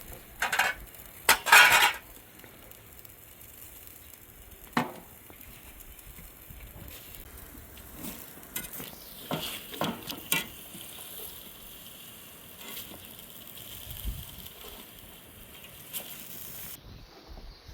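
Food sizzling in a pan while a metal utensil stirs it, with sharp knocks and scrapes of the utensil against the pot: a loud cluster in the first two seconds, one near five seconds and several around ten seconds.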